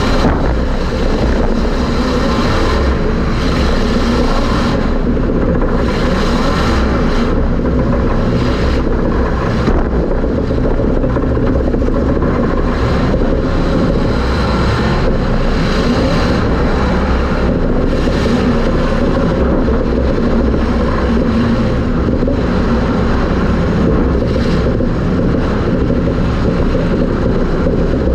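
Super stock race car's engine running hard under racing load, heard from inside the car, loud and continuous, with brief dips in its top end every few seconds.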